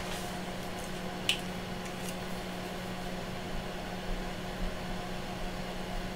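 Steady hum of running bench test equipment, with one sharp click about a second in and a few fainter ticks later.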